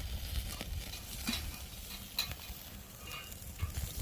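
Meat and green onions sizzling on a grill over an oak-wood fire, a steady hiss with a few sharp pops, one a little over a second in and another about two seconds in.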